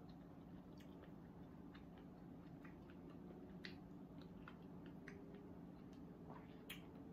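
Faint close-up chewing with small scattered mouth clicks, over a low steady hum.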